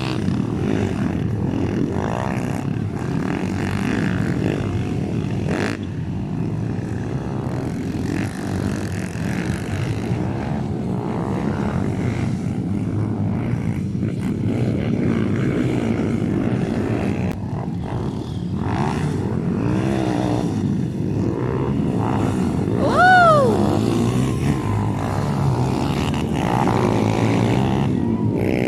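Motocross dirt bikes running on a track, a steady engine drone, with one bike revving sharply up and back down about three quarters of the way through, the loudest moment.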